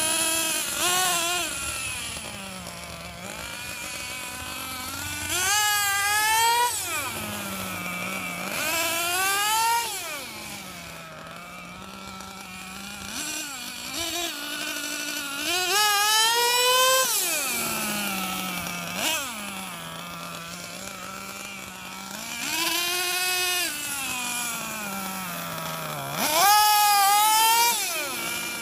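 Losi XXL-2 Gas RC monster truck's small two-stroke gas engine revving up and dropping back to a burbling idle about five times, each rev a rising then falling whine. The engine is being broken in on its fourth tank of fuel.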